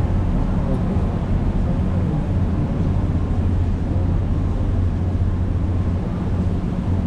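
Cruise boat's engine running steadily, a low drone heard on board.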